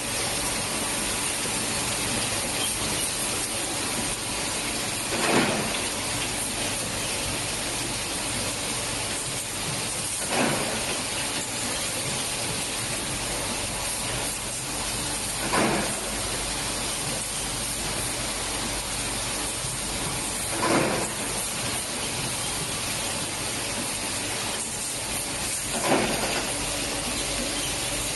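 Glass-lid bending and tempering line running: a steady high hiss of air, with a brief louder burst about every five seconds, five times.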